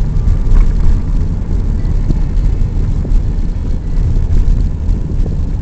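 Car driving along, its road and engine noise a steady, loud low rumble as heard from inside the moving car.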